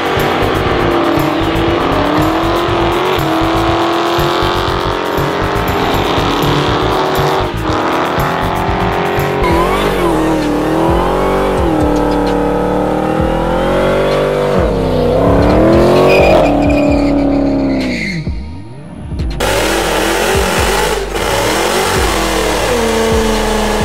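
Dodge Challenger V8 engines revving hard during burnouts, their rear tyres spinning, the engine note rising and falling again and again. The sound cuts sharply to a different car about ten seconds in and again about nineteen seconds in.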